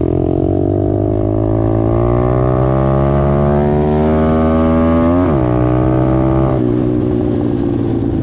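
Dirt bike engine under hard acceleration, its pitch climbing steadily for about five seconds, then dropping sharply, holding lower for a moment and dropping again about a second and a half later.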